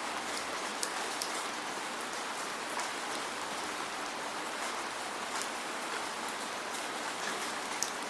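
Steady rain falling with no thunder: an even hiss of rainfall with the sharper ticks of single drops striking a surface scattered through it.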